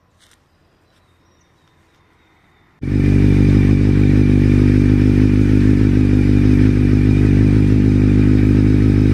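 Motorcycle engine running at a steady speed, cutting in suddenly and loudly about three seconds in after near silence.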